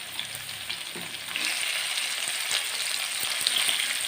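Onions, potatoes and green chillies sizzling as they fry in oil in a pan, with a spoon clicking and scraping as they are stirred. The sizzle grows louder about a second and a half in.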